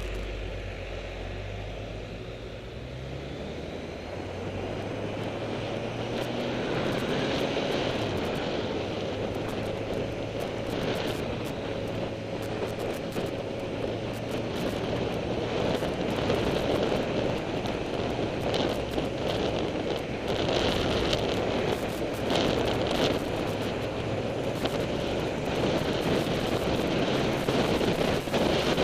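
Sport motorcycle ridden with an onboard camera: the engine note climbs in pitch as it accelerates over the first few seconds. Then wind rushing and buffeting over the microphone grows steadily louder and covers it as speed builds.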